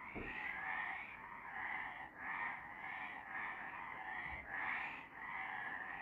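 Chorus of several frogs calling at night, their croaks overlapping and repeating about twice a second.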